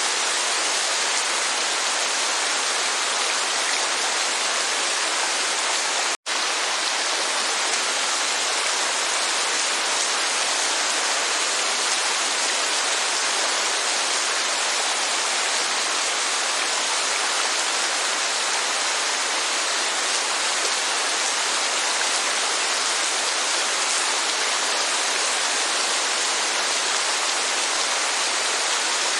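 Steady rain and falling water, an even hiss with little low end. It cuts out for an instant about six seconds in, then carries on unchanged.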